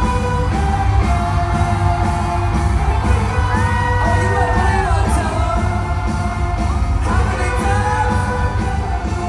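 Live band music with singing, loud and steady over a heavy bass, with long held, gliding vocal notes.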